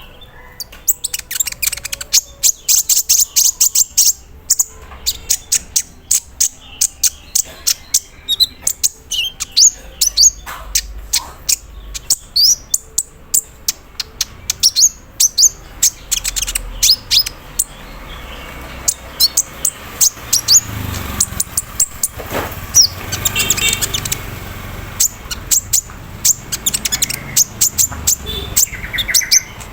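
Kolibri ninja (sunbird) singing in rapid bursts of short, high, sharp chirps and fast stuttering trills, including a rattling 'cerrr'. Its song carries a mimicked chatter likened to an embroidery machine.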